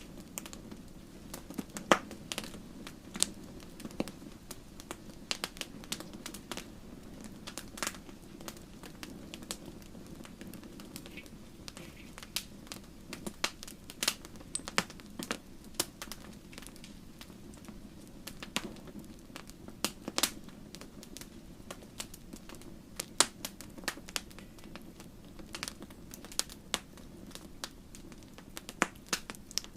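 Wood fire burning in a fireplace, crackling and popping with sharp irregular snaps over a steady low rumble of flames.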